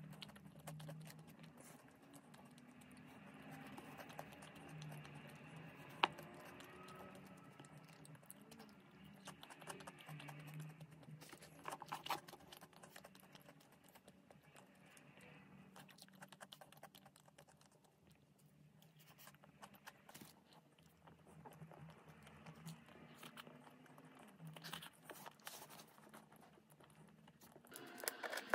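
Faint, close-miked chewing of a Kinder milk chocolate bar with a white filling: scattered small crunches and mouth clicks, one sharper click about six seconds in. Near the end, a wrapper crinkles as a Kinder egg's packaging is peeled open.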